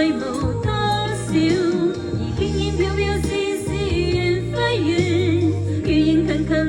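A Cantonese pop song playing: a sung melody over sustained bass notes.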